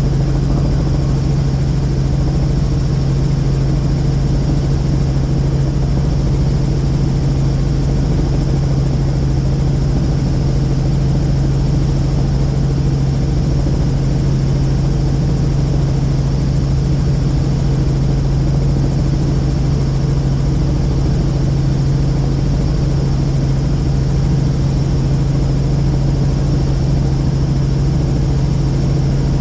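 Helicopter in steady flight: even rotor and engine noise with a strong low hum.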